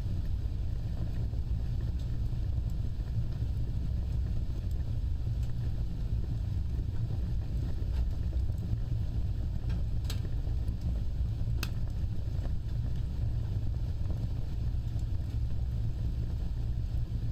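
Wood fire burning with a steady low roar of flames and a few faint crackles, with two sharper pops about a second and a half apart past the middle.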